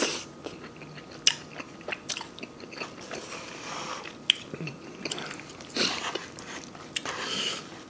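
Close-miked mouth sounds of a person eating: a bite of food right at the start, then steady chewing with small wet clicks and smacks.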